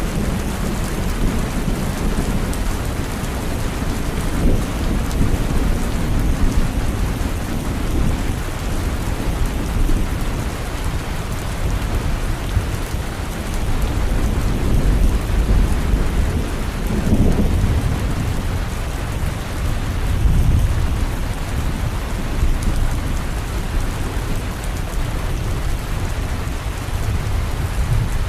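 Steady heavy rain with low rumbles of thunder that swell up several times.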